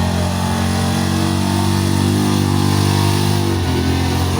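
Pulling truck's engine running hard under load as it drags the sled, a steady loud engine note that dips briefly in pitch near the end.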